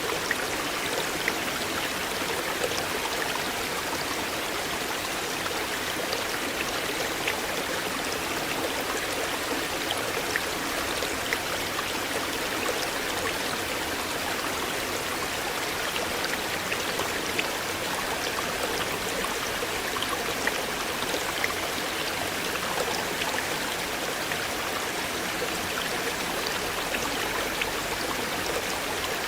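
River water flowing steadily: an even, constant rush with scattered small splashing ticks.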